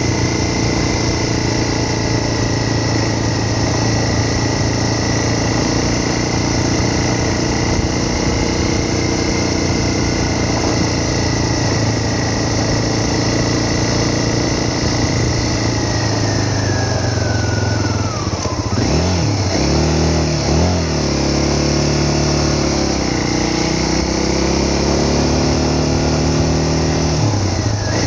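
A vehicle engine running while driving. Its pitch holds steady, then falls about two-thirds of the way through as it slows. It runs at low revs with some wavering before picking up again near the end.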